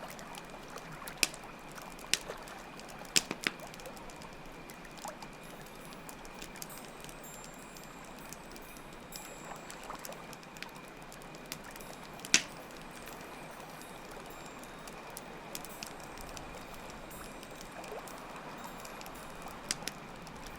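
Campfire crackling with a few scattered sharp pops, the loudest about twelve seconds in, over a steady rush of running water and a continuous high cricket trill.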